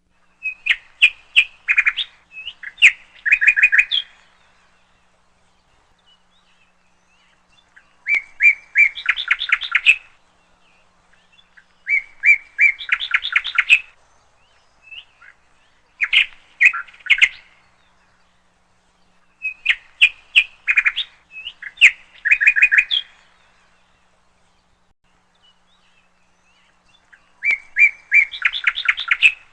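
Small songbird singing: phrases of quick, high chirps and trills lasting a couple of seconds each, repeated six times with clean silent pauses between them.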